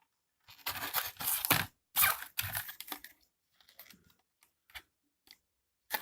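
Earphone packaging and parts being handled: two spells of rustling and crinkling in the first three seconds, then scattered light clicks and taps.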